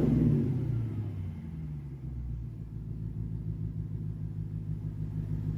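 BMW 550i E60's naturally aspirated N62B48 4.8-litre V8 exhaust falling back from a light rev over about the first second, then idling steadily.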